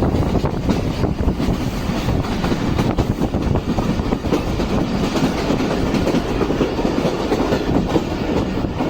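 A moving train, its running noise loud and steady, with a few faint clicks.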